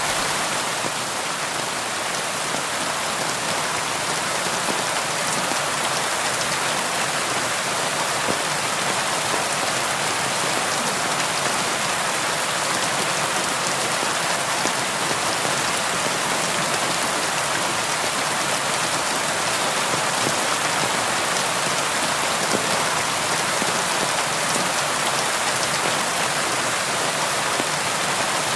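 Steady rain falling, with a fine patter of drops on a window.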